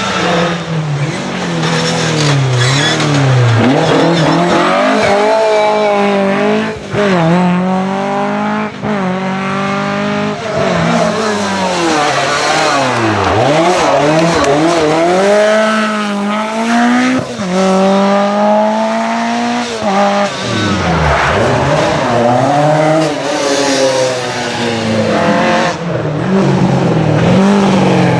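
Historic rally car engine revving hard, its pitch climbing and then dropping sharply again and again as it accelerates and shifts, with tyre noise mixed in.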